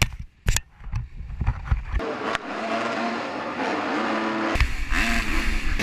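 Motocross bikes racing, their engines revving up and down, with a few sharp knocks in the first two seconds.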